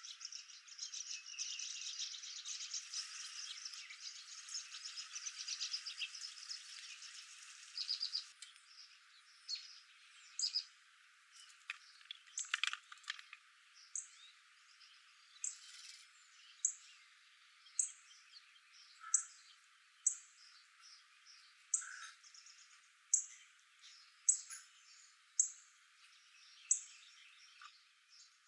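Wild birds calling: dense, high twittering for the first several seconds, then one bird repeating a short, sharp, high call about once a second.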